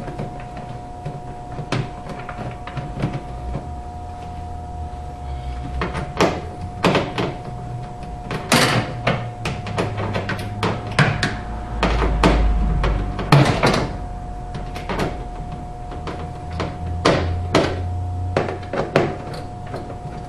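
Plastic dishwasher sump parts being handled and fitted back into place: an irregular series of sharp clicks and knocks over a steady hum.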